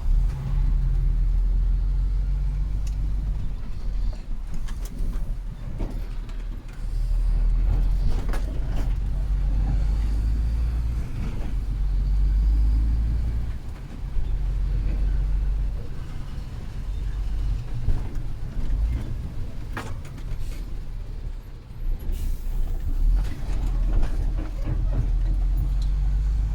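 Heavy truck's diesel engine running under way, heard from inside the cab: a deep rumble that swells and eases, with a few brief knocks and rattles.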